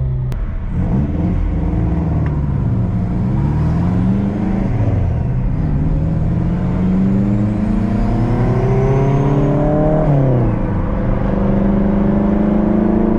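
Car engine revving and accelerating, its pitch rising and falling several times, with a long climb that drops off sharply about ten seconds in.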